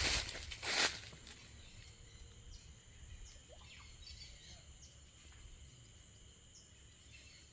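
Rainforest ambience: a steady chorus of insects holding high, even tones, with scattered faint bird chirps. Two short, loud bursts of noise come in the first second.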